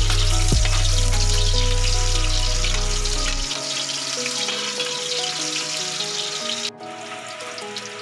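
Garlic and sliced onion sizzling in hot oil in a wok, a steady crackling hiss that drops out abruptly for a moment near the end.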